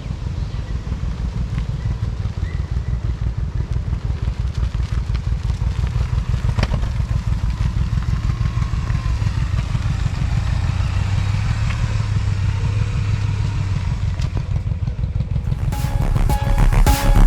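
Motorcycle engine running with a steady, fast low pulsing from the exhaust. Music comes in near the end.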